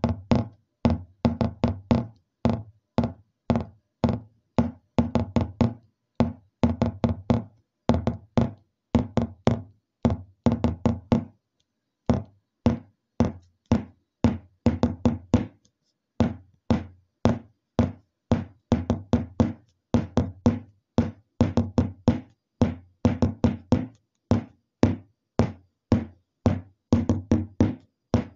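Rapid, regular knocks, a few a second, in runs separated by short pauses.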